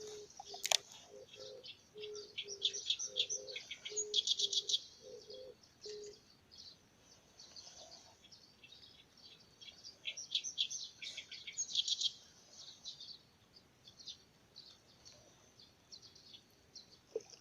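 Birds chirping in quick clusters of short, high notes, busiest a couple of seconds in and again about ten seconds in. A low note repeats for the first six seconds, and there is one sharp click just under a second in.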